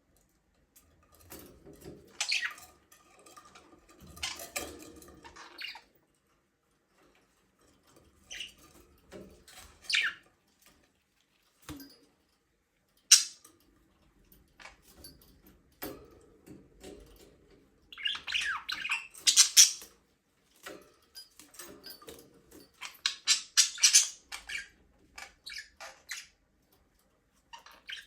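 Budgerigars chirping and chattering in irregular bursts separated by short quiet gaps, with one sharp click about thirteen seconds in.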